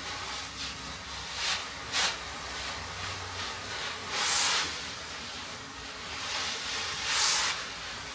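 Four short bursts of hiss over a steady low hum. The two at about four and seven seconds in are the longest and loudest.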